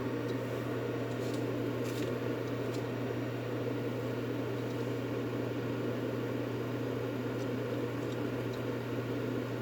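Steady white-noise track for soothing a baby to sleep: a constant, even low hum and whoosh like a running fan or appliance motor. A few faint ticks in the first three seconds.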